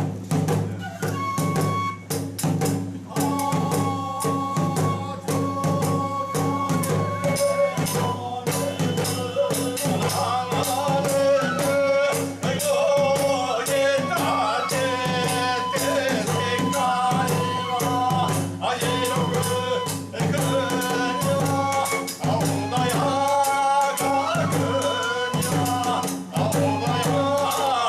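Bangaku ritual dance music: a bamboo transverse flute playing a melody over a dense, steady stream of drum and small hand-cymbal strikes.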